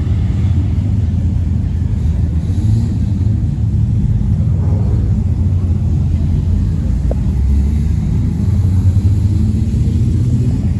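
Muscle car engine idling with a deep, steady rumble.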